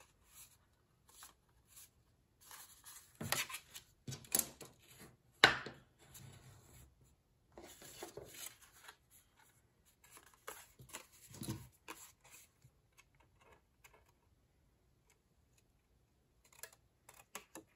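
Scissors snipping paper and card stock, with paper rustling between irregular, scattered cuts; the loudest is a sharp snap about five and a half seconds in.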